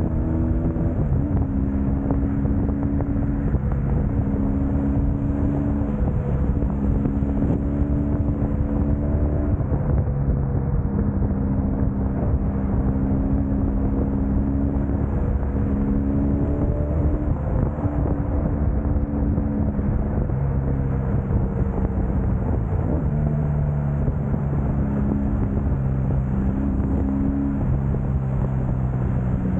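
Motorcycle engine running under way with steady wind and road noise, its note stepping up and down with the throttle as it rides through traffic.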